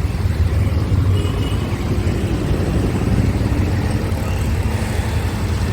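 Motorcycle riding along: a steady, unbroken engine and road rumble.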